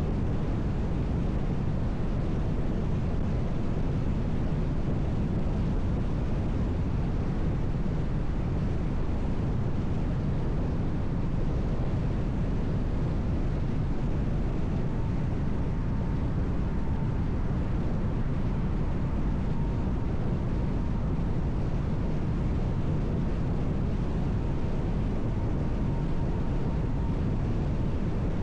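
Steady road and wind noise of a car driving at an even speed, a low rumble of tyres on pavement. A faint thin high tone sounds for about twelve seconds in the second half.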